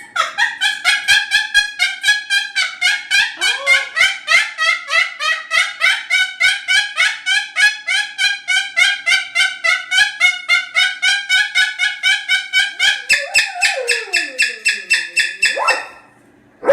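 Moluccan cockatoo calling loudly in a fast run of repeated short notes, about four a second, then a longer held call that slides down in pitch near the end.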